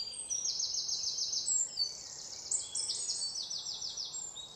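Songbirds singing: rapid runs of short, high, down-slurred notes, about eight a second, with several songs overlapping.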